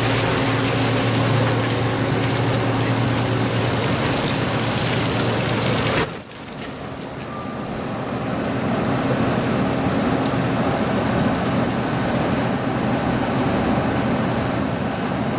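Heavy farm machinery engines running at the silage clamp as a trailer load of maize comes in. About six seconds in the loud noise cuts off sharply and a high-pitched whistle or squeal sounds for about a second and a half, then the engines carry on at a steady lower hum.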